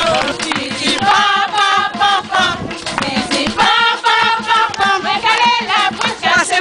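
A group of voices singing together over a steady rhythmic beat.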